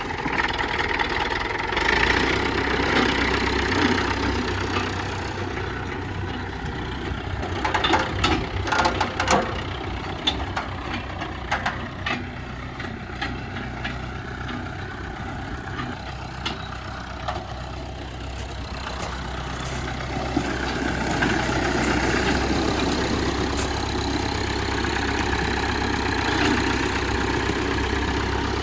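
International A414 tractor engine running at idle just after being started on a recharged battery, growing louder twice, a couple of seconds in and about two-thirds of the way through, with a few sharp knocks about eight to nine seconds in.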